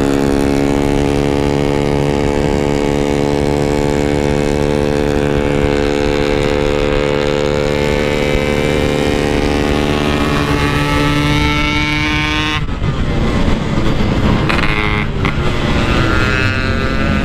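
Yamaha RX-King 135cc two-stroke single-cylinder motorcycle engine under way, its exhaust note held at one steady pitch. About thirteen seconds in the note breaks up suddenly into a rough, noisy sound, then the revs climb again near the end.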